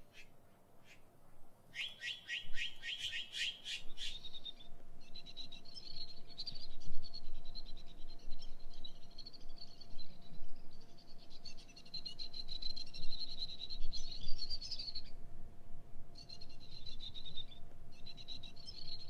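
Songbirds calling: a quick run of high chirps, then long, rapid high-pitched trills that stop and start again several times.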